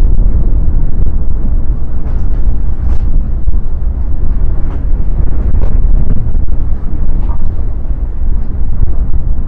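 Strong gale-force wind buffeting the microphone: a loud, continuous low rumble that rises and falls with the gusts.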